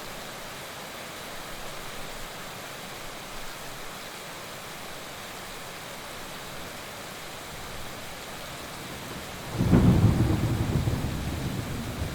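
Heavy rain falling with a steady hiss; about two thirds of the way through, a sudden loud crack and rumble of thunder that rolls on and fades toward the end.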